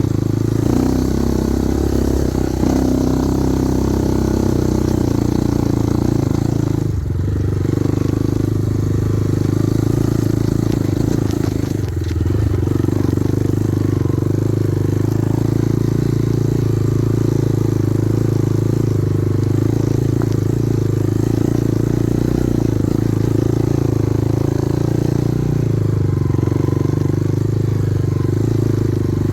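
Kovi Advance 250 motorcycle engine running at a steady pace while riding, its note briefly dipping twice in the first half.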